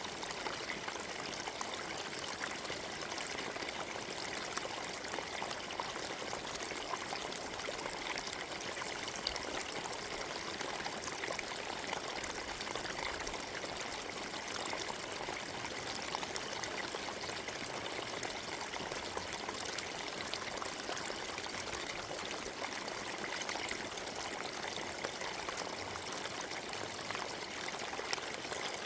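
Forest stream babbling and trickling over stones: a steady, even rush of running water with small splashes.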